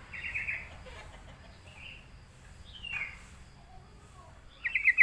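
Yellow-vented bulbul (trucukan) singing: short bursts of quick, high chirping notes, a brief call and one falling note. The loudest burst of rapid notes comes near the end.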